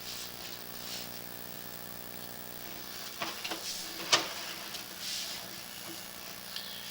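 Sewer inspection camera rig's faint steady hum, with a few clicks about three seconds in and one sharp knock just after four seconds, as the camera's push cable is worked through the pipe.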